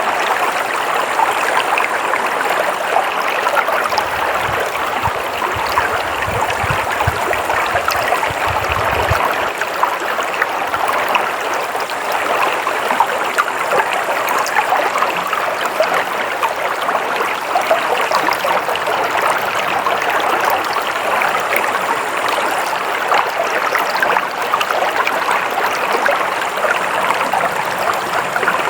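A stream of water flowing steadily, a continuous even rushing and trickling. About four seconds in, a low rumbling sits under it for around five seconds.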